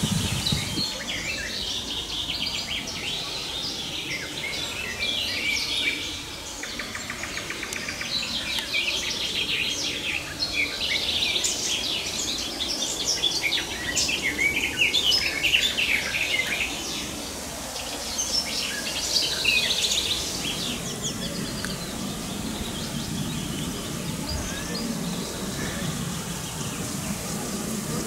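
Several songbirds singing and calling at once, a dense mix of quick chirps and trills, busiest from about a third of the way in to about two thirds.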